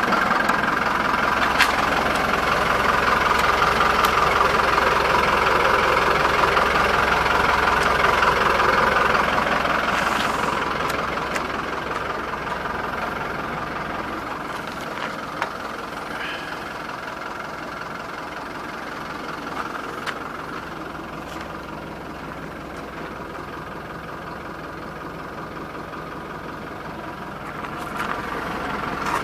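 A 2018 Toyota Dyna truck's engine idling steadily. It becomes quieter and loses its low hum from about ten seconds in.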